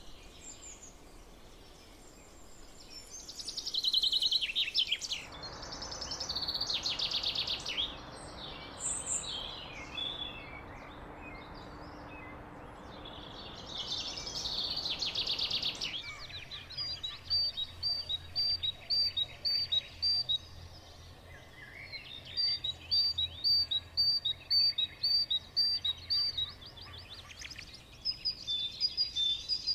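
Songbirds singing: loud trilled phrases over a steady hiss in the first half, then, after an abrupt change in the recording, runs of short, high, rapidly repeated chirps.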